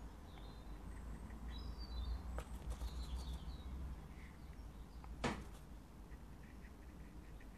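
Faint bird chirps over a low steady hum, with one sharp click about five seconds in.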